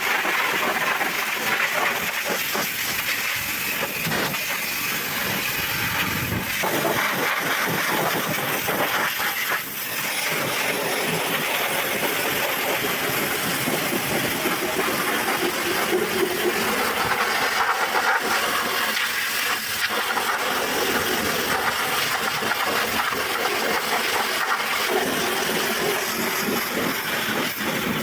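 Pressure washer jet spraying water onto a truck engine: a steady, loud hiss.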